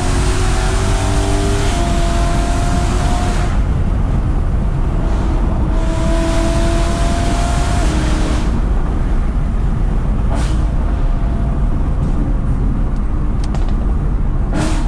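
BMW E92 M3's V8 heard from inside the cabin, pulling hard twice with the pitch rising and shifting up through the gears, then easing off to a lower, duller drone. A few sharp clicks come near the end.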